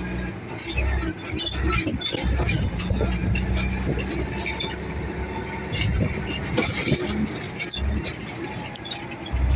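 Heavy truck engine running while driving, with the low hum dipping and returning a few times, and frequent clicks and rattles.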